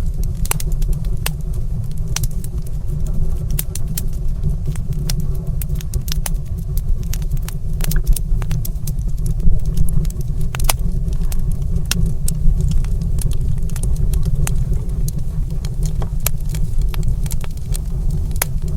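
Wood fire crackling in a stone fireplace: irregular sharp pops and snaps, a few louder ones, over a steady low rumble.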